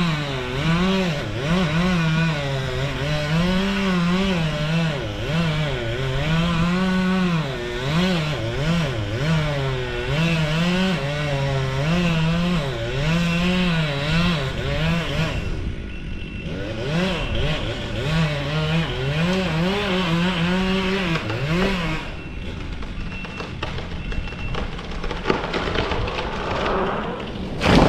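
Chainsaw running and cutting a cottonwood tree, its engine pitch rising and falling over and over as the throttle and load change. It drops away briefly about midway, runs again, and then gives way to a quieter stretch for the last few seconds.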